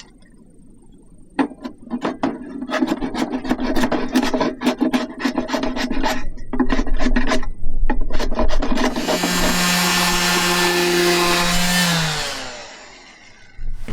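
Woodworking: a run of short, irregular scraping strokes on wood, then a small power tool runs steadily for about three seconds and winds down with falling pitch.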